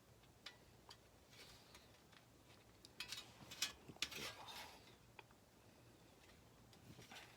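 Faint handling noise of the metal fire-pit parts: soft rustling with a few quiet sharp clicks and clinks about three to four seconds in.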